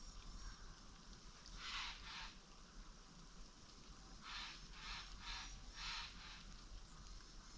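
Short rustling noises: two about two seconds in, then four in quick succession a little later.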